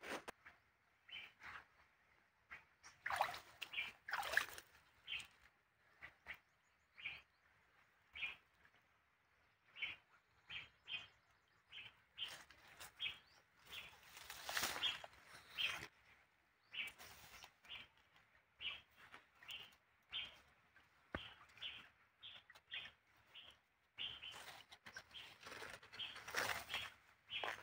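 Small birds chirping: many short, high calls scattered throughout. Louder bursts of rustling come a few seconds in, around the middle and near the end, as leaves are brushed close by.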